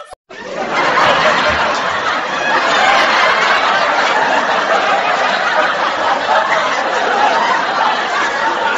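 Many people laughing and chattering at once, a dense, steady crowd sound that begins abruptly just after the start.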